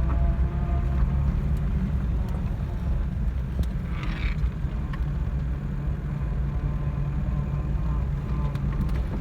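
1986 Jeep Cherokee's V6 engine running steadily at low speed, likely while backing up in reverse, with a brief hiss about four seconds in.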